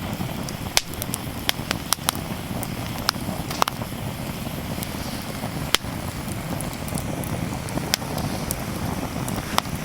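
Sizzling and crackling over a wood campfire grill: a steady hiss with sharp, irregular pops, as from fat spitting and burning wood.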